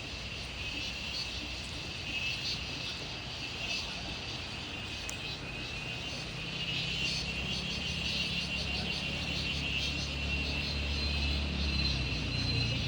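Insects keep up a steady, high shrill chirring. From about halfway a low engine hum comes in and grows louder, like a vehicle approaching.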